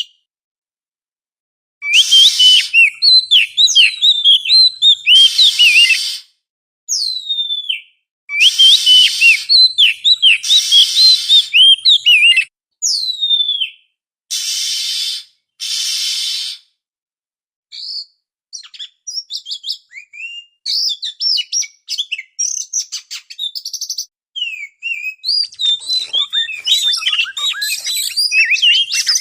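Oriental magpie-robin (kacer) song: loud phrases of quick whistled notes sliding up and down, mixed with harsh scratchy notes and short silent gaps, starting about two seconds in and turning into busier, denser chatter near the end.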